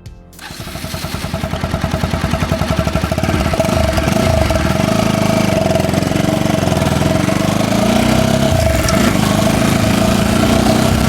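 Bajaj Pulsar NS 200 single-cylinder motorcycle's exhaust note. The engine starts with an evenly pulsing idle that grows louder over the first few seconds, then runs at higher revs that rise and dip.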